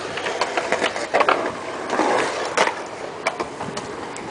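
Skateboard and BMX wheels rolling over skatepark concrete, a steady rolling noise broken by several sharp clacks and knocks.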